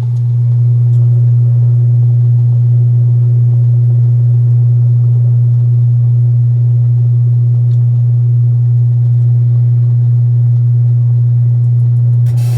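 Whirlpool direct-drive washing machine in its spin cycle giving off a loud, steady low hum, the strange noise that comes from the motor strap. Near the end a hiss joins in.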